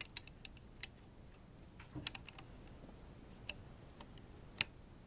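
Small plastic construction-toy bricks clicking and tapping against each other in scattered, separate clicks, with a little cluster about two seconds in: pieces of a broken KRE-O brick model being handled.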